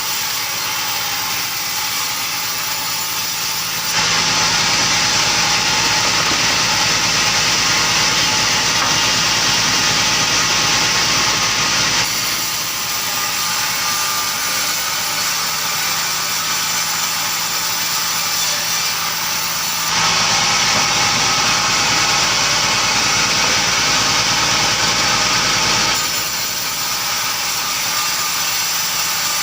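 An engine-driven wood saw runs steadily. It gets louder and harsher in two long stretches, as if biting into the wood, and drops back to a lighter running sound in between. The changes are sudden.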